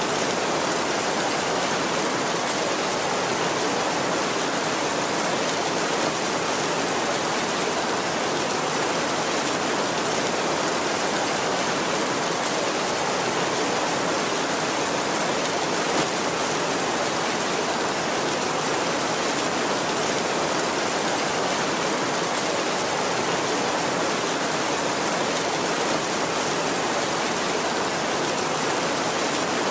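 Heavy rain on a tin roof: a steady, even downpour hiss with a few faint drop ticks.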